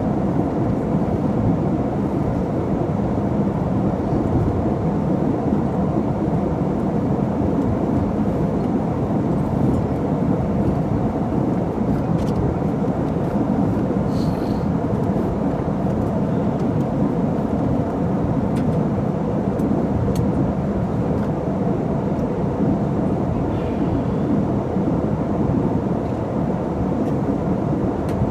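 Steady drone of an airliner cabin: engine and airflow noise heard from a passenger seat, deep and even, with a few faint clicks.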